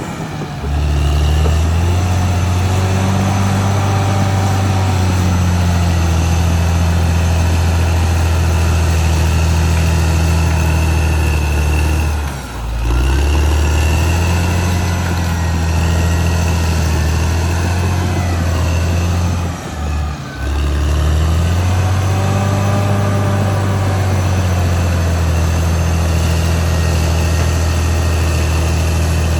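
Caterpillar D6R XL bulldozer's diesel engine running steadily under work, with a fainter higher whine above it. The sound dips briefly twice, about twelve and twenty seconds in.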